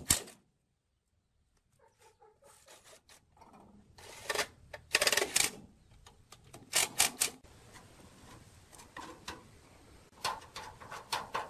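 Workshop clicking and rattling in several short clusters of sharp clicks, after a brief drop to silence just after the start.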